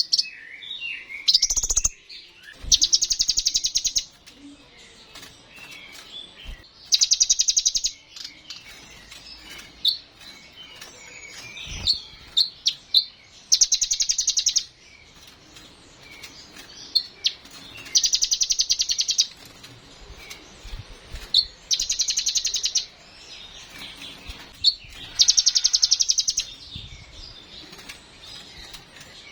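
Kolibri ninja sunbird singing: rapid, rattling high trills of a second or so, repeated about every four seconds, with thin twittering and chips in between.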